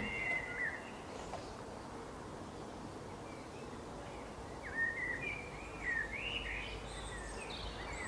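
Small birds chirping: short whistled calls that glide up and down, a couple at the start and a busier run from about five to seven and a half seconds in, over steady outdoor background hiss.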